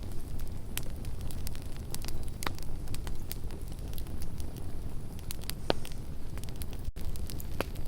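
Campfire burning: a steady low rumble under scattered sharp crackles and pops from the wood, with a few louder pops at about two and a half, five and a half and seven and a half seconds in.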